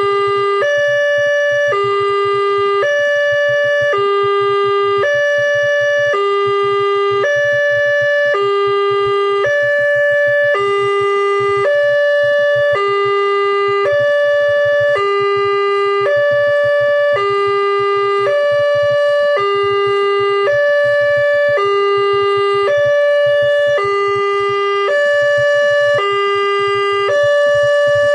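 Railway level-crossing warning alarm sounding a steady electronic two-tone signal: a low tone and a higher tone alternate, one full cycle about every two seconds, warning that a train is approaching.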